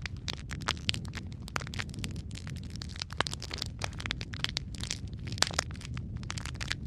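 Wood fire crackling, with a steady low rumble of flames and many irregular sharp pops and snaps of varying loudness.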